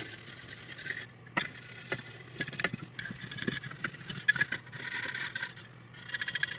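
Old shoe-polish applicator being scrubbed over the body of a Marx 666 toy locomotive: irregular scratchy rubbing strokes with small clicks and taps.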